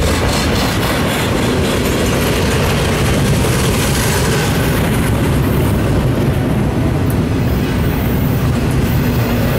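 Double-stack container well cars of a CSX intermodal freight train rolling past close by: a loud, steady rumble of steel wheels on rail.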